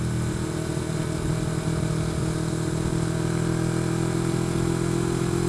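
Motorcycle engine running at a steady cruising speed, a constant engine drone under steady wind rush.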